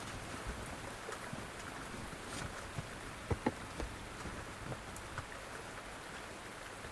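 Rain falling on the car's roof and body, heard from inside the cabin as a steady patter with scattered taps, and two sharper ticks a little past halfway.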